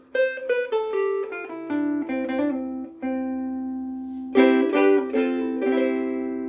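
Soprano ukulele strung with Aquila Reds strings, played: a run of single picked notes, a strum about four and a half seconds in, then a few more notes left ringing and slowly fading.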